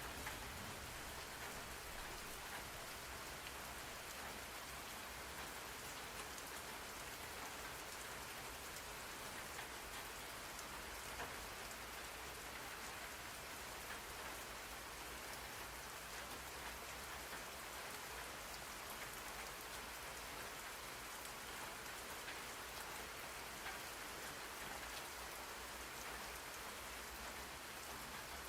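Steady rain falling on a surface, a continuous even hiss with scattered faint drop ticks, played as a rain-sound white-noise track.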